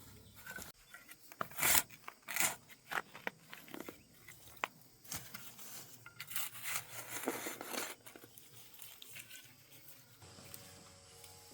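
Irregular crunching, tearing and rustling: a series of short crackles and rasping scrapes, busiest in the first half and thinning out after about eight seconds.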